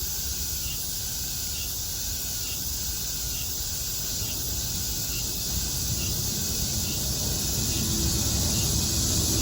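Steady high-pitched chorus of summer cicadas, with a faint short note repeating about every 0.7 seconds. From about six seconds in a low rumble grows louder, an airplane approaching.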